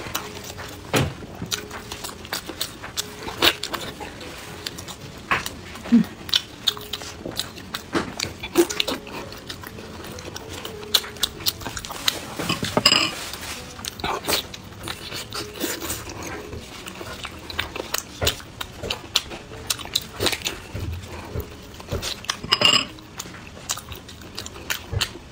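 Close-miked eating sounds of a person chewing soft blood sausage: wet mouth smacks and chewing clicks, irregular and frequent, with squishing as gloved hands pull the sausage apart.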